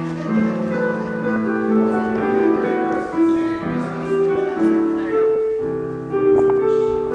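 Piano playing slow, held chords with a melody moving over them.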